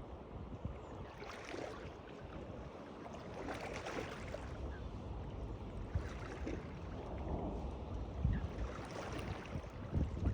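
Water lapping and splashing, swelling in surges every two to three seconds over a low, steady rumble.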